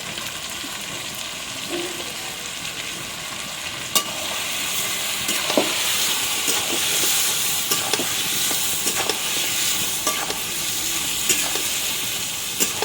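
Chicken pieces frying with onion and spices in hot oil in a kadai, sizzling steadily, with a spatula stirring and knocking against the pan now and then. The sizzle grows a little louder about four seconds in.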